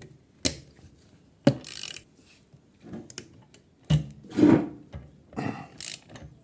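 Hand tools working at the seized nuts on an outboard motor: a few sharp knocks of metal on metal between short rasping scrapes.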